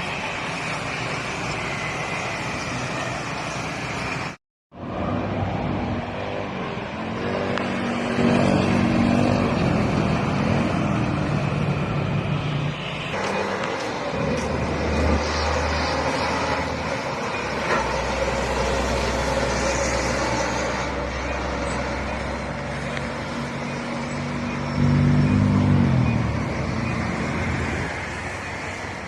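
Road traffic passing close by: heavy trucks' engines running past over steady traffic noise, with a low rumble in the middle and the loudest engine pass near the end. The sound drops out completely for a moment about four seconds in.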